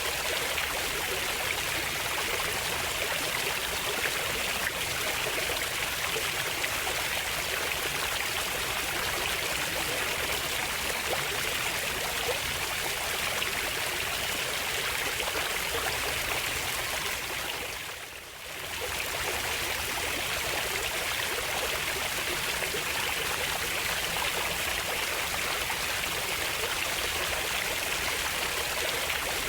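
A stream of running water flows steadily, with a brief dip in loudness about two-thirds of the way through before it comes back.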